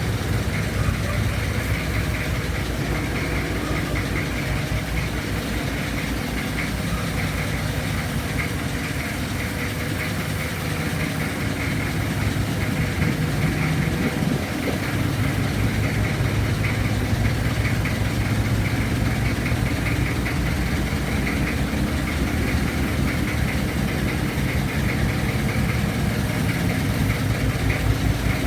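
1994 Kia Ceres 2.4 diesel engine idling steadily with a rapid even beat, running a little louder from about halfway.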